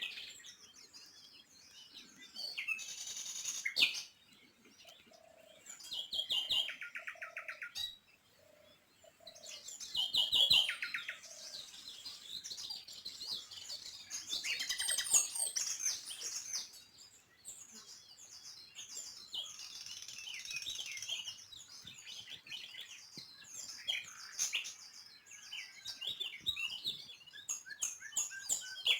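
Small songbirds chirping and twittering in a busy, overlapping chorus, with quick trills of rapidly repeated notes now and then.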